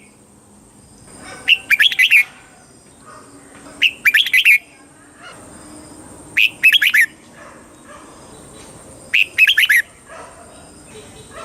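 Red-whiskered bulbul singing: four short, quick warbling phrases, one about every two and a half seconds.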